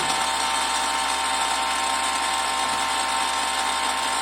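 Battery-powered pressure washer running steadily, a constant motor whine over a hiss, while it primes to refill a drained hose.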